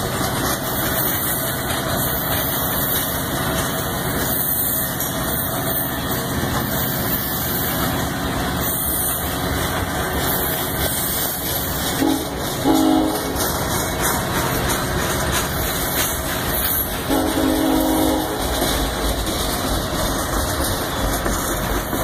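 Loaded ballast gondola cars of a work train rolling past, a steady rumble of wheels on rail. Two short low tones sound about twelve and seventeen seconds in.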